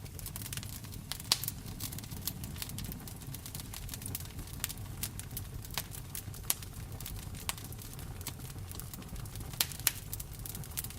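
Wood fire in a fireplace crackling, with frequent sharp pops (the loudest about a second in and twice near the end) over a low steady rumble.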